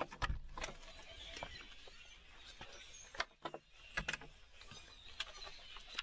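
Birds chirping in the open air, broken by several sharp knocks and rustles from a handheld camera being moved about.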